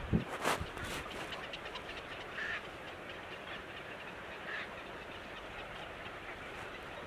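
Birds giving a few short calls over a steady background hiss, with a sharp knock and some clicks in the first second.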